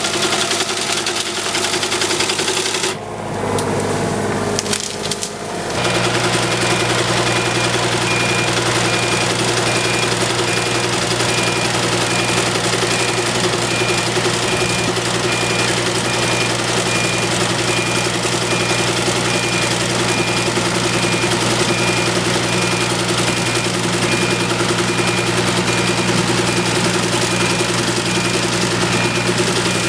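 Excavator engine running under load while driving a hydraulic sickle bar mower on its boom. The sound dips and shifts for a few seconds about three seconds in, then settles into a steady run with a faint, evenly repeating high tick.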